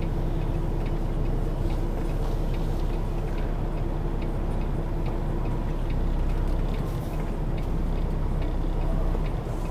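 Semi-truck's diesel engine running slowly while the rig is backed, heard from inside the cab, with a string of small ticks over it.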